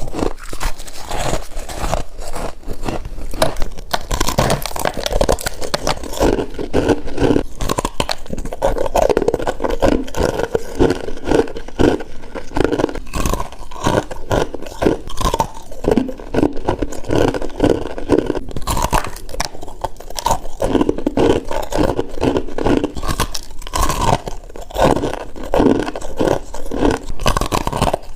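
Close-up crunching of a person biting and chewing icy frost, a dense unbroken run of crisp crunches and scrapes. A faint steady high tone sits underneath from about four seconds in.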